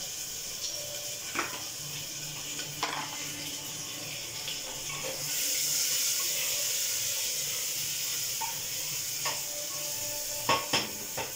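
Spiced onion-and-potato masala sizzling in oil in an aluminium pressure cooker, stirred with a wooden spatula that knocks against the pot a few times. The sizzle grows louder about five seconds in as the pan is tilted and stirred.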